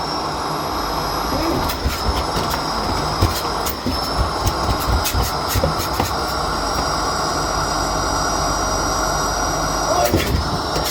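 Miele Blizzard CX1 bagless cylinder vacuum cleaner running steadily with a constant high whine over a broad rushing hum, with occasional sharp clicks and knocks.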